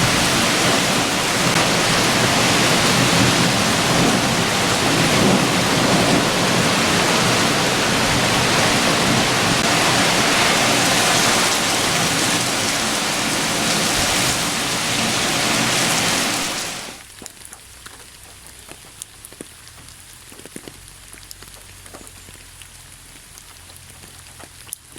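Heavy rain pouring steadily, which cuts off abruptly about two-thirds of the way through, leaving a much quieter patter of scattered drops.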